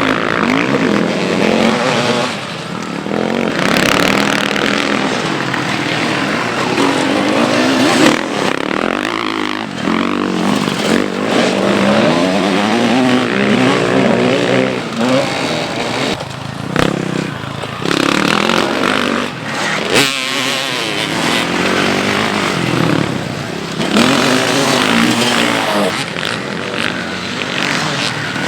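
Several motocross bikes' engines revving hard, the pitch climbing and dropping repeatedly as riders open and close the throttle and pass by, several engines overlapping.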